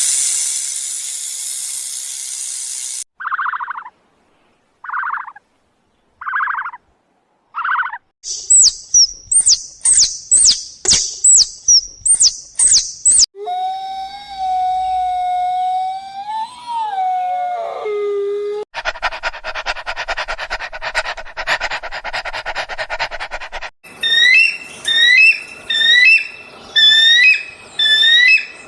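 A string of different animal calls, one after another, with abrupt switches. First a hiss for about three seconds, then four short calls. Then a fast run of high whistling chirps, a long call that wavers and falls in pitch, a few seconds of buzzing, and repeated high chirps near the end.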